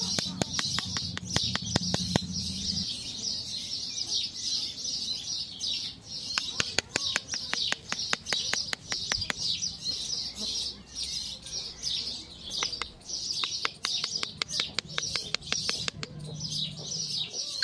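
Small birds chirping continuously in the background, with frequent sharp clicks and taps.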